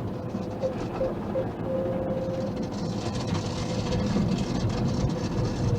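Car wash machinery running: a steady rumble with a faint whine, and a hiss that grows louder about three seconds in.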